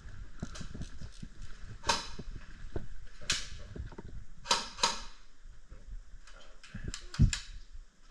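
Clicking, knocking and rattling of an airsoft rifle and its magazine being handled, with several short, sharp bursts and a low thump about seven seconds in. The magazine is not feeding or releasing properly, which the player thinks means a busted magazine.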